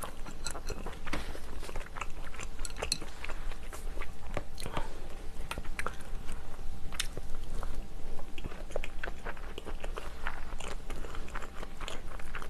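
A person chewing mouthfuls of seafood stew and rice close to the microphone: many small, irregular wet clicks and smacks of eating.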